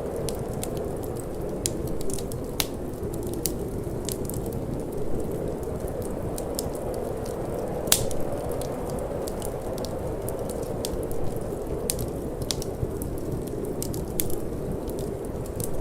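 Wood fire crackling in a fireplace: irregular sharp pops and snaps, the loudest about eight seconds in, over a steady low rush of wind.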